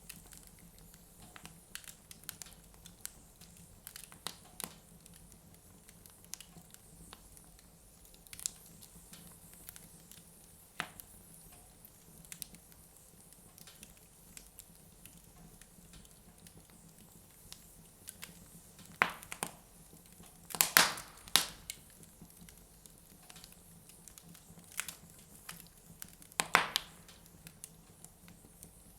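Wood fire burning in a fireplace, crackling with scattered irregular pops, and a few louder bursts of crackling about two-thirds of the way through.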